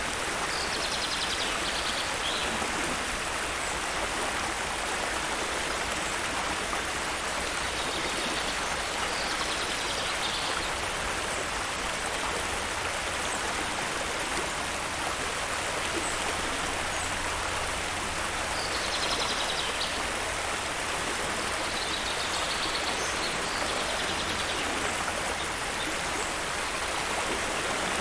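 Steady rushing of a flowing stream, with short bird calls rising above it every several seconds.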